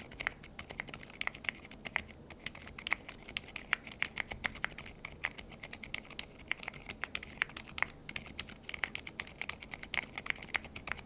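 Typing on a Neo65 keyboard with a carbon-fibre plate and Osume Little Ghost silent linear switches: a quick, continuous run of quiet, dampened keystrokes.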